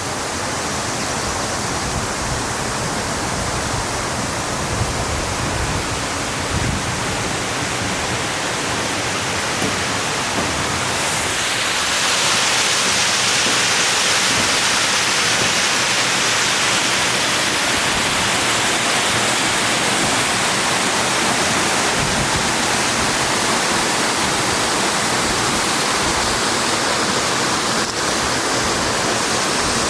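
Multi-tiered waterfall rushing steadily, a dense even roar of falling water that grows louder and brighter about twelve seconds in.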